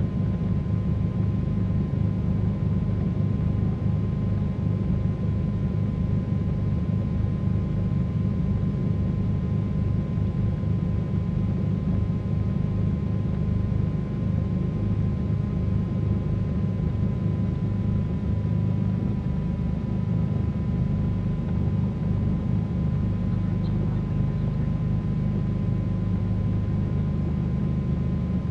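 A Cessna 310Q's twin piston engines running at low power while taxiing, a steady low drone with a faint constant whine above it.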